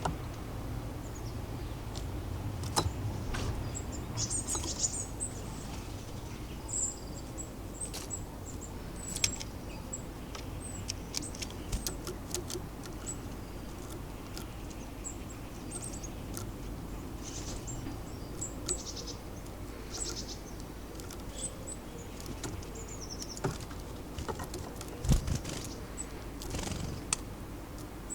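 Small garden birds calling with many short, high-pitched chirps, with scattered sharp clicks, over a steady low background hum.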